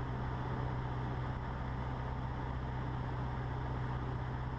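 Cessna 150's four-cylinder Continental O-200 engine and propeller droning steadily at approach power, heard inside the cockpit.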